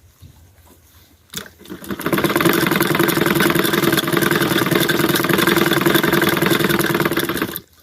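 A motor or small engine starts, runs loud and steady for about five seconds, then cuts off suddenly.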